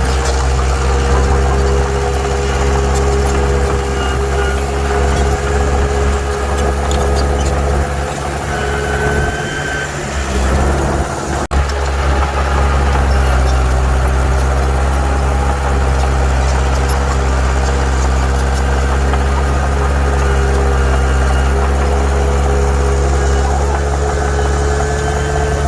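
Bulldozer's heavy diesel engine running steadily with a low drone, its note dipping briefly about nine to eleven seconds in, with a few short high squeals over it.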